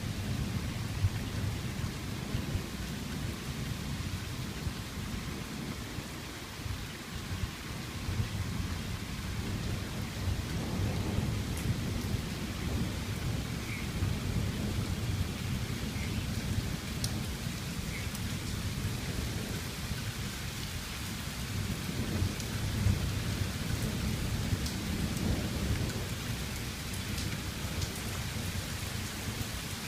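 Steady rain falling in a thunderstorm, with a low rumble of thunder rolling under it throughout and a few scattered drops ticking.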